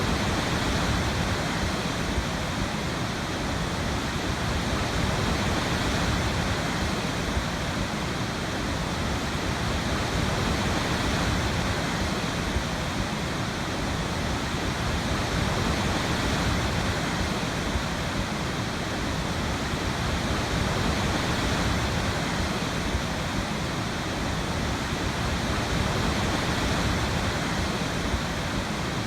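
Waterfall: water falling steadily, an even, unbroken rush.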